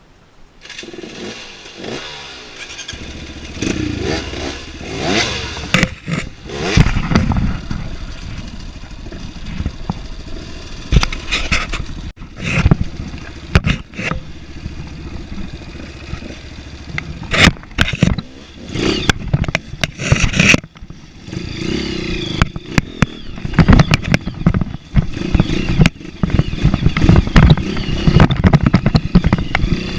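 Off-road motorcycle engine running and revving up and down as it rides a rough trail, with frequent clattering knocks and scrapes. The first second is quiet before the engine sound picks up.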